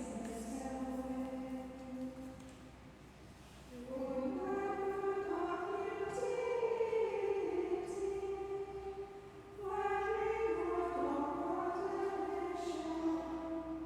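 A choir singing unaccompanied chant in slow phrases of held notes. It goes softer for a stretch about two to four seconds in and breaks briefly before the next phrase near the ten-second mark.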